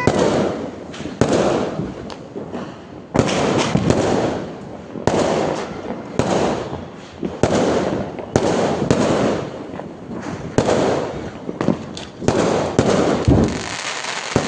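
Many Diwali firecrackers bursting one after another: sharp bangs at irregular intervals, with crackling between them.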